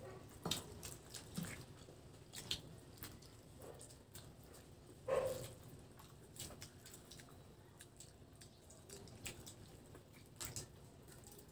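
Close-up mouth sounds of people eating boiled pork hock and rice by hand: chewing, wet lip smacks and small clicks coming every second or so, with one louder short sound about five seconds in.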